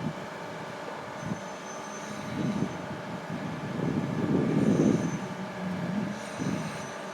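Zoomlion 37 m concrete pump truck running: a steady mechanical hum with louder surges of rumble, the longest about four to five seconds in.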